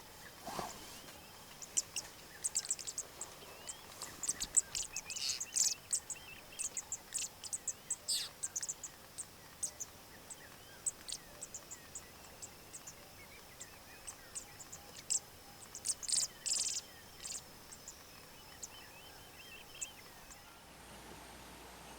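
Birds chirping in many short, high notes, some in quick runs, over a faint steady insect drone. The chirping thins out near the end.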